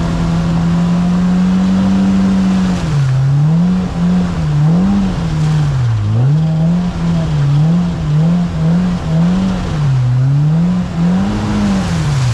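Side-by-side UTV engine held at steady revs for about three seconds, then revved up and down again and again, about once a second or faster, in quick throttle blips.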